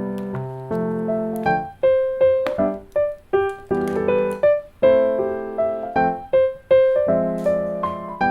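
Background instrumental piano music, a melody of struck notes and chords that ring and fade.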